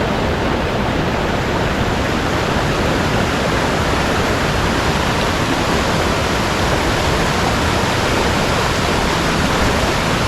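Mountain stream water rushing steadily over rocks, a constant loud rush with no breaks.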